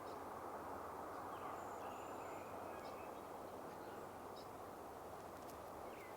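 Steady, low outdoor background rush with faint, thin, very high-pitched calls of cedar waxwings about a second or two in.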